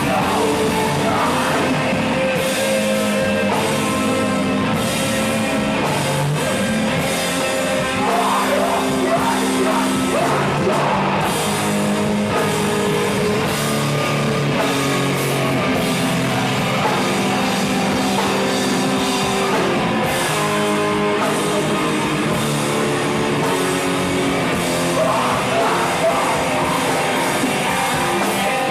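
Live rock band playing loud, distorted, with drums, electric guitars and shouted singing.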